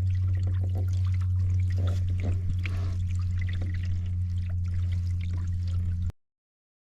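Water splashing and trickling over a steady low hum. The sound cuts off suddenly about six seconds in.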